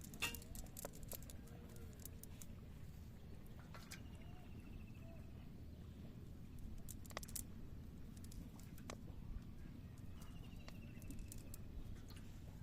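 Outdoor ambience: a steady low rumble with scattered sharp clicks and taps, and a short falling trilled call heard twice, a few seconds in and again near the end.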